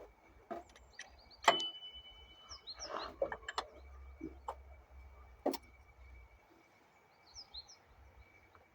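A few sharp knocks and clicks of handling, the loudest about a second and a half in, followed by a brief high squeak. A small bird chirps a few quick notes near the end.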